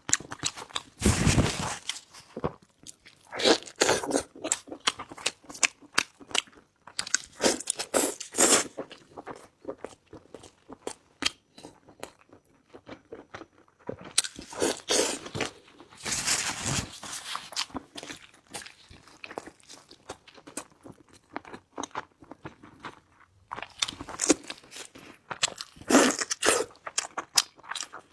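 Close-miked chewing and crunching of food, with bursts of loud crunchy bites between stretches of quieter chewing.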